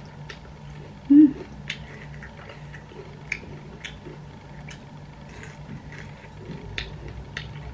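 A person chewing a mouthful with scattered wet mouth clicks and lip smacks. A short hummed 'mm' about a second in is the loudest sound.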